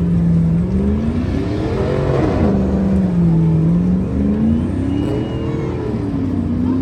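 A vehicle engine revving hard over and over, its pitch climbing and falling back about every two seconds.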